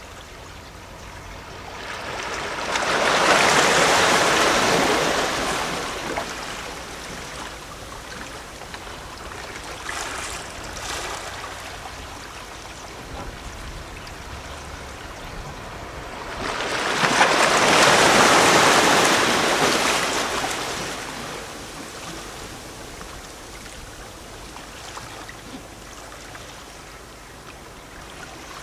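Sea waves lapping and gurgling against shore rocks, with two larger waves washing in, one about three seconds in and another around seventeen seconds, each swelling for a few seconds and then receding.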